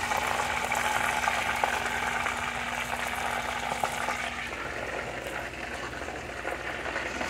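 Battered chicken thighs frying in a pan of hot oil: a steady crackling sizzle that eases a little after about four seconds.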